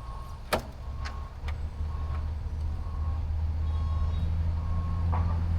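A vehicle's reversing alarm beeps about once a second over a steady low engine hum that grows louder. A sharp click comes about half a second in.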